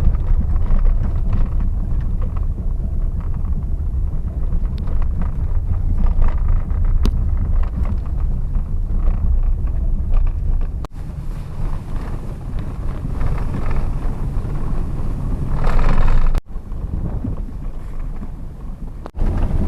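Car driving on a snowy country road, heard from inside the cabin: a steady low rumble of road and engine noise. The sound breaks off abruptly three times at edit cuts.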